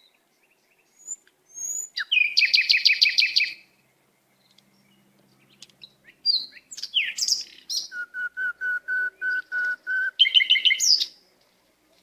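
A songbird singing in separate phrases: a fast trill about two seconds in, then varied chirps, a run of about nine evenly repeated lower whistled notes, and a short trill near the end.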